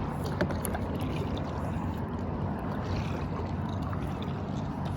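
Kayak paddle strokes and water lapping at the hull, over a steady low rumble.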